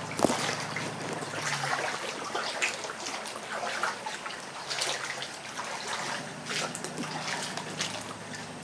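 Floodwater splashing and trickling in irregular spurts, with a faint low steady hum at the start and again from about two-thirds of the way through.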